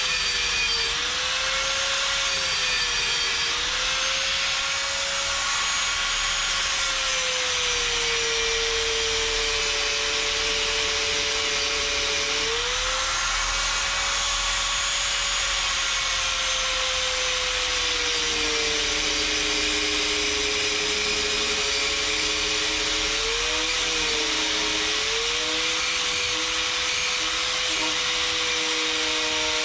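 A small motor running steadily over a hiss, its pitch wandering slowly up and down.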